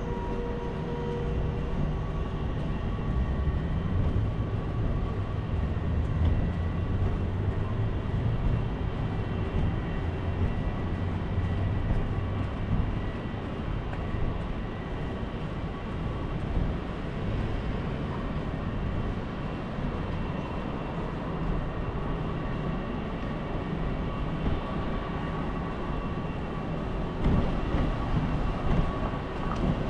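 Steady wind and road noise from riding through city streets, a low rumble with a faint steady whine on top.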